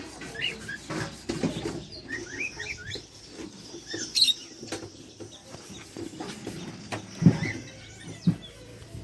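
Small parrots chirping in short rising and falling calls, with scattered knocks and rustles among the birds. Two louder low sounds come near the end.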